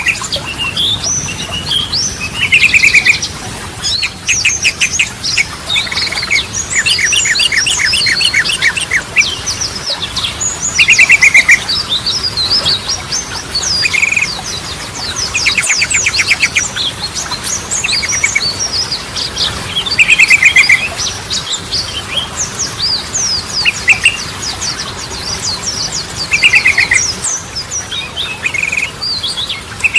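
Yellow-vented bulbul (trucukan) singing continuously: short, rapid rattling trills every few seconds, interwoven with quick high chirps and sweeping notes.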